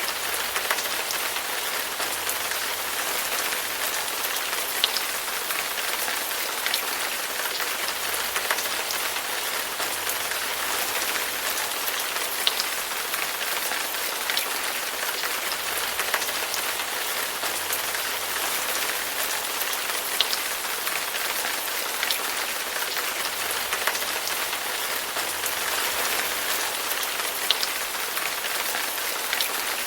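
Steady rain falling and pattering on a surface, an even hiss with scattered sharper drop hits.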